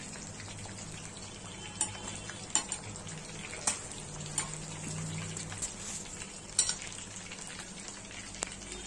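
Breaded chicken legs frying in hot oil in a stainless steel pan: a steady sizzle, with a few sharp clicks of metal spoons against the pan as the pieces are turned.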